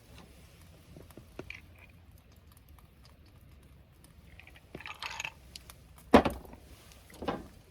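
A person eating: chewing and handling food, with a few small clicks, a noisy burst near the middle and a sharp loud knock a little after six seconds.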